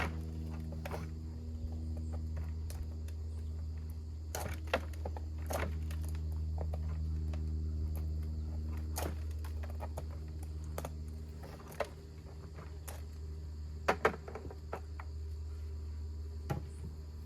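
Steady buzzing of honeybees around an opened beehive, with scattered clicks and knocks from wooden hive frames and boxes being handled, the sharpest a quick pair near the end.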